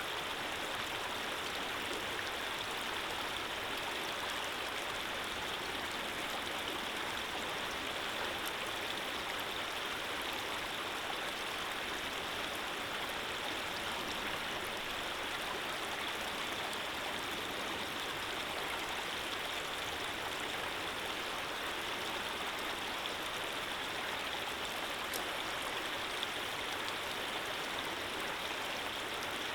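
Running water flowing steadily: an even, unbroken rushing that does not change.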